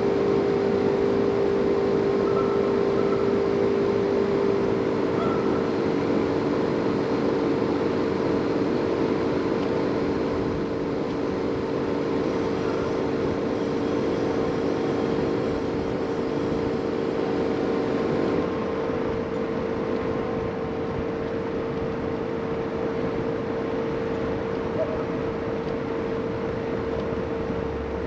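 Motor-driven equipment running steadily with a loud, even drone and hiss. About 18 seconds in, a second, lower hum cuts out while the main drone keeps going.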